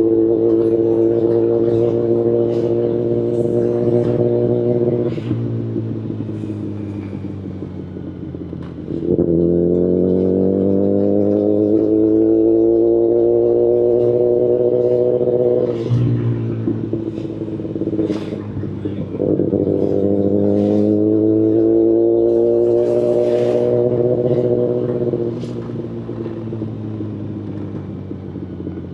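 2019 Kawasaki Ninja ZX-10RR's inline-four engine through an Akrapovic Evolution Line full exhaust, pulling under throttle three times with the pitch climbing slowly each time. The throttle is rolled off about five, sixteen and twenty-five seconds in, and the note drops to a quieter, lower sound.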